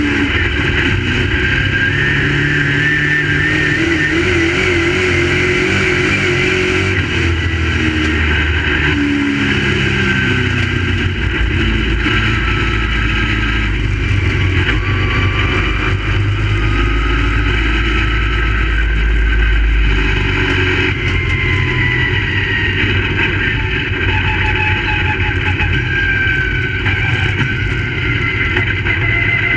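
Several crate late model race cars' V8 engines racing together, their pitches rising and falling as drivers get on and off the throttle and cars pass. The sound stays loud and continuous, with no break.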